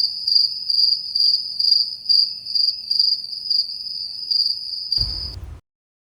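Cricket chirping: a high, even trill pulsing a little more than twice a second, with nothing else heard. It cuts off abruptly about five seconds in.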